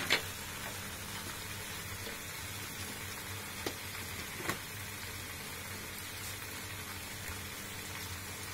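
Chopped leeks sizzling steadily in hot oil in a pressure-cooker pot as they sauté. Two faint clicks come about halfway through.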